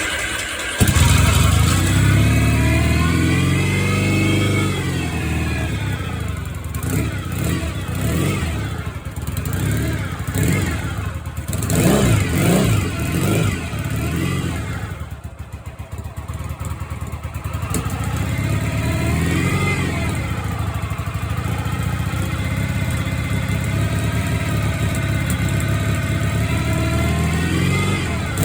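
Yamaha XS650 air-cooled parallel-twin engine running and being revved up and back down several times. Over it is a whirring noise whose source the owner is trying to find.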